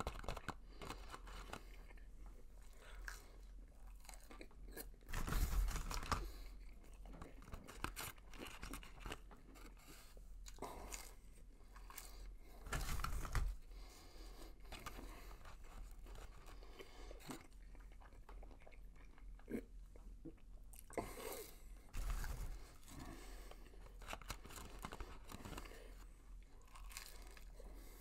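A man chewing and crunching chicken McNuggets close to the microphone: a steady run of small crackly mouth sounds, with several louder bursts about five, thirteen and twenty-one seconds in.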